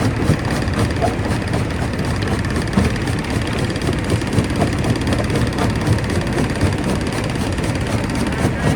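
Stone crusher running: a steady heavy mechanical rumble dotted with irregular knocks and crackles of rock being broken.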